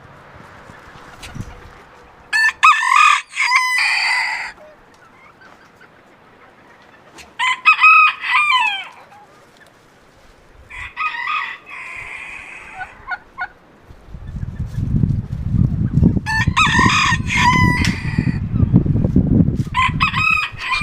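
Roosters crowing in a farm yard, about five crows a few seconds apart, with hens clucking. From about two-thirds of the way through, a low rumble of strong wind on the microphone.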